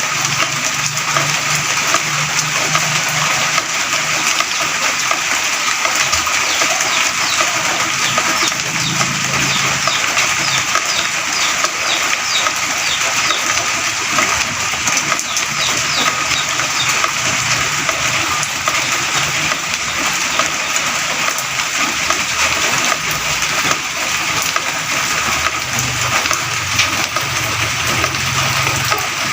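Drizzle falling steadily, a dense even hiss of small raindrops. Faint bird chirps come through about halfway.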